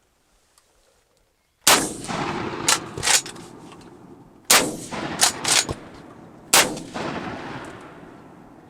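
Three shotgun blasts about two seconds apart, each followed by a long rolling echo that dies away, with a few shorter sharp cracks between them.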